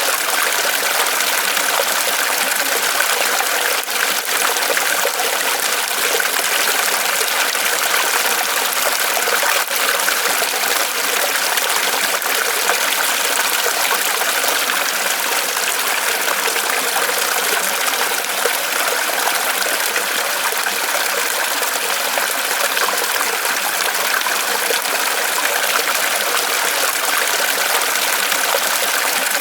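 Small waterfall of water pouring and trickling off a tree trunk, a steady, even splashing rush with no pauses.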